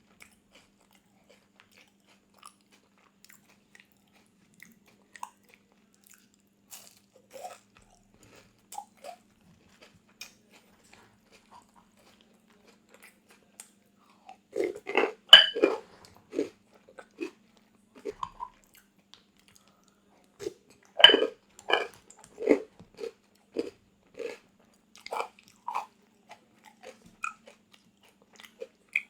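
Close-miked eating of crunchy food: a few soft mouth clicks, then loud crisp bites and crunchy chewing in two bouts, the first about halfway through and the second a few seconds later.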